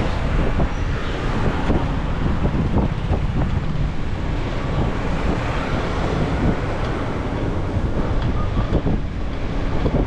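Wind buffeting the microphone of a camera on a moving bicycle: a steady, low rushing noise.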